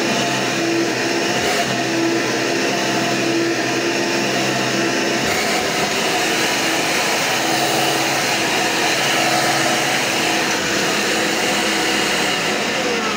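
An orange 8-amp Hoover commercial vacuum cleaner running steadily, a loud, even rush of air with a steady motor hum.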